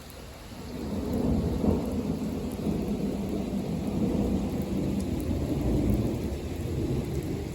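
A long rumble of distant thunder builds about a second in and rolls on, low and steady, over light rain.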